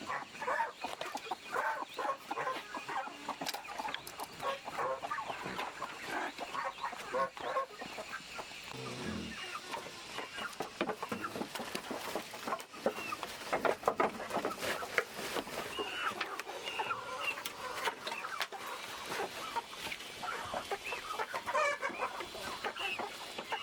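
Chickens clucking on and off, many short overlapping calls, with scattered sharp clicks or knocks among them.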